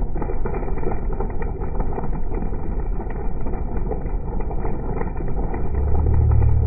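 Steady road and engine noise of a moving car, heard from inside, with a deep low rumble swelling near the end.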